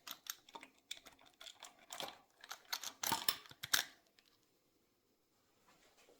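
Irregular run of light clicks and metallic clinks from hand tools and small engine parts being handled on the motorcycle engine's cylinder head, lasting about four seconds.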